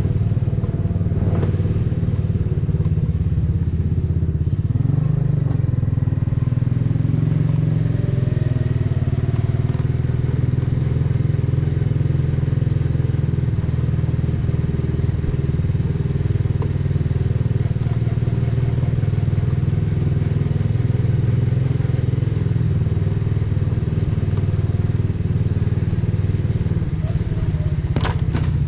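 125 cc custom motorcycle engine and exhaust running at a steady pace while riding, a constant low drone with no large revs. A few sharp clicks sound near the end.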